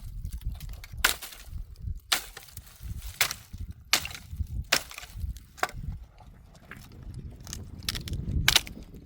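Firewood being broken up: sharp wooden cracks and knocks, roughly one a second, over low handling rumble, with the loudest blows near the end.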